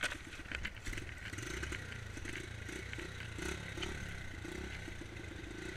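Dirt bike engine running unevenly at low revs, with scattered clicks and scrapes. The rider thinks it is running low on fuel.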